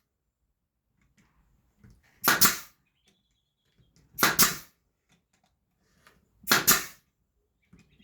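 Brad nailer firing three times, about two seconds apart, each shot a sharp crack driving a brad nail into the wood.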